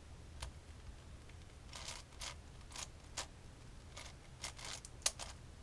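Plastic layers of a large Rubik's-type puzzle cube being turned by hand: irregular clicks and short scrapes, a dozen or so, the sharpest a little after five seconds.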